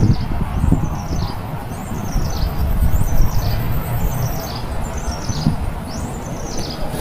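Small birds chirping: repeated short, high chirps that each slide downward, several a second, over a steady low rumble.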